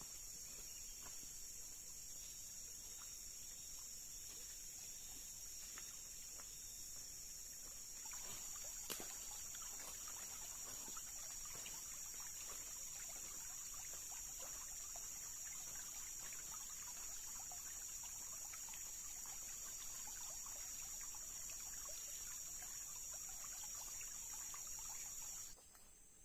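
Tropical forest insect chorus: a steady, high, unbroken shrill drone, with scattered light ticks and patters joining in about a third of the way through.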